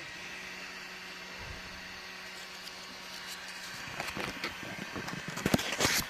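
Small desktop 3D printer giving a faint steady hum. From about four seconds in it is joined by a run of clicks and rustling as the bed is levelled by hand with a sheet of paper under the nozzle, loudest near the end.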